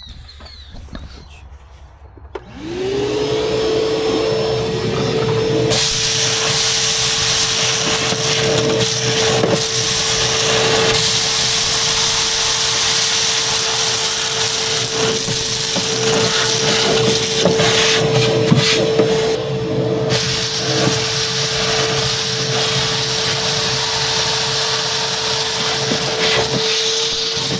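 Vacuum motor starting up about two and a half seconds in, its whine rising to a steady pitch. It then runs on with a loud rushing hiss as it sucks leftover corn seed out of a planter's seed hoppers, with scattered rattles of seed going up the hose. The rush drops briefly a few seconds before the end.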